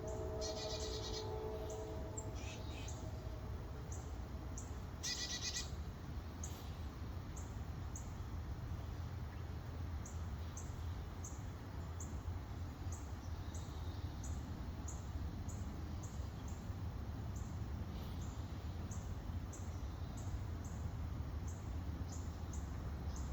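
Birds chirping in short bursts, with a rapid burst of calls about five seconds in, over a steady low rumble. A faint high tick repeats more than once a second.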